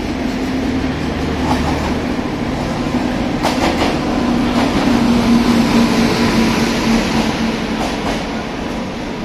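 Two trains crossing at speed: an express hauled by an electric locomotive runs through beside a double-decker train. The wheels clatter over the rail joints over a steady hum that grows loudest about five to six seconds in as the locomotive and its coaches pass, then eases.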